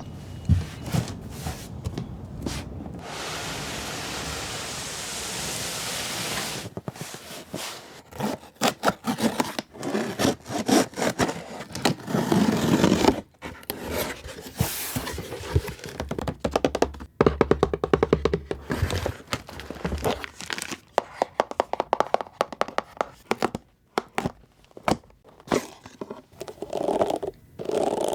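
Doll packaging being handled and opened: scraping, crinkling, tearing and knocks, with a steady hiss from about three seconds in to about seven, and music in the background.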